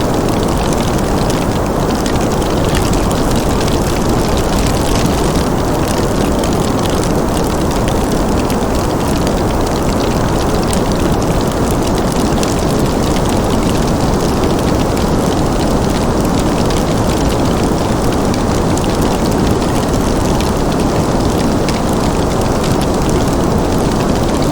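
Fireplace ambience: a steady, even rushing noise, mostly low in pitch, with faint scattered crackles of burning wood over it.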